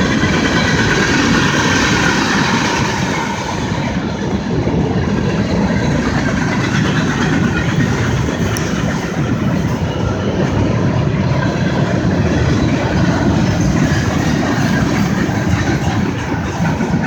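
A short train rolling past close by, its wheels making a steady, loud noise on the rails.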